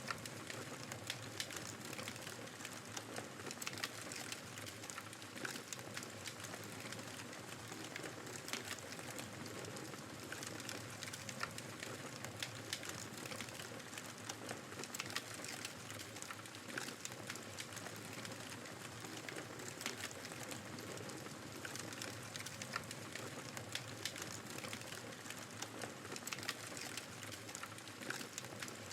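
Wood fire crackling in a fireplace, many small sharp pops over a steady hiss of blizzard wind.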